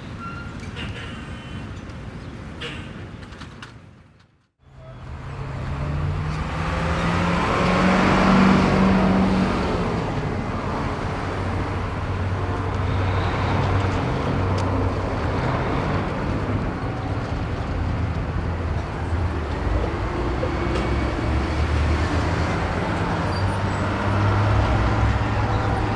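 City street traffic: cars and heavier vehicles passing with a steady engine hum. About four seconds in, the sound fades briefly to silence, then a denser traffic bed fades back up. Around eight to nine seconds in, one vehicle passing close is the loudest sound.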